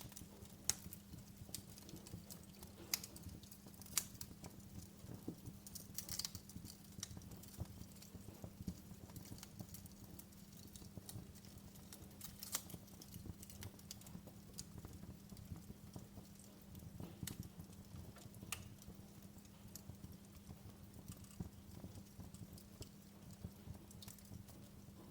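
Wood fire crackling in a fireplace: irregular sharp pops and snaps, a few louder ones in the first few seconds, over a low steady hum.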